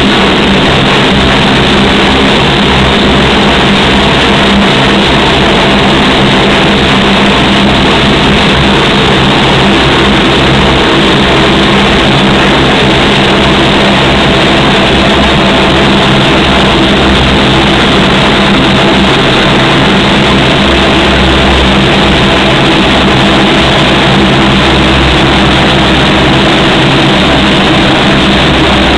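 Lockheed P-3C Orion's Allison T56 turboprop engines running steadily and loud, a dense, unchanging drone of several steady tones over a rushing noise.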